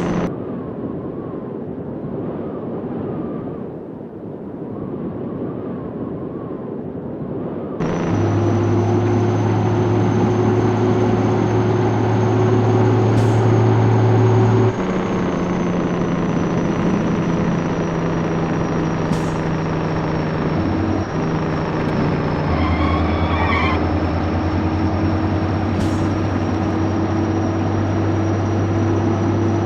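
Scania 110 truck's 11-litre six-cylinder diesel engine running on the road. The engine note steps to a new pitch several times, as with gear changes, and sounds muffled for roughly the first eight seconds.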